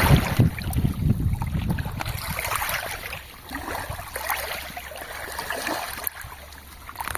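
River water splashing and sloshing at the water's edge in irregular bursts, with a low rumble of wind on the microphone in the first couple of seconds.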